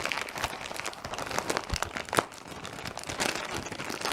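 Packaging and bubble wrap crinkling and rustling with many small crackles as a mailed parcel is unwrapped by hand.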